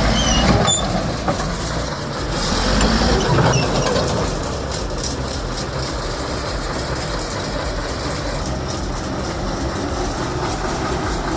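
Heavy earthmoving machine's engine running steadily under work, with a low rumble and a few high clicks or squeaks in the first second.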